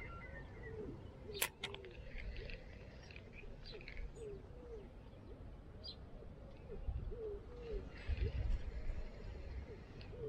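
Birds calling in the open: a run of short, low, falling notes repeated at irregular intervals, with higher chirps from small birds over them. There is one sharp click about a second and a half in.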